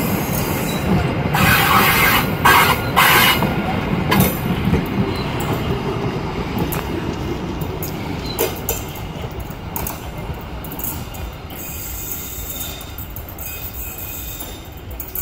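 Passenger train coaches rolling slowly over the rails, wheels rumbling and clanking, with a few sharp squeals about one to three seconds in. The sound fades steadily as the last coach moves away.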